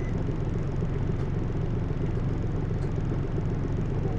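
Hino U-HT2MLAA route bus running steadily, heard from inside the cabin as an even, low engine and road rumble. The bus is one the uploader describes as prone to abnormal noises, now sounding close to the worn-out state of its sister bus near the end of its life.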